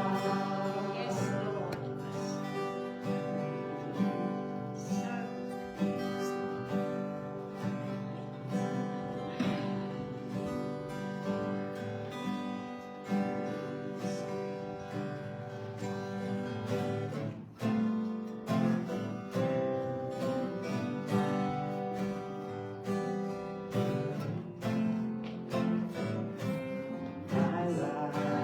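Worship song with strummed acoustic guitar carrying the music and voices singing along.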